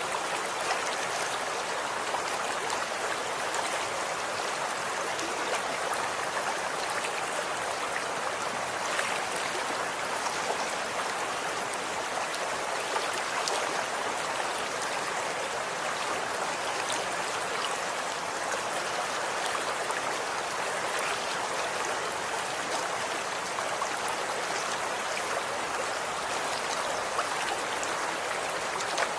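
Running water flowing steadily in a stream, an even rushing splash with fine trickling and droplet detail.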